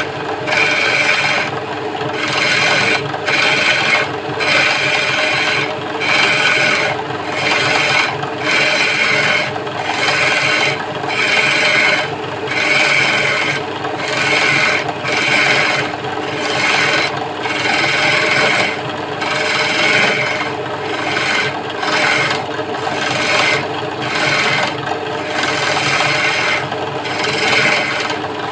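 Wood lathe running with a tool held against the spinning wooden stool leg, scraping and cutting it in repeated strokes about once a second over a steady motor hum.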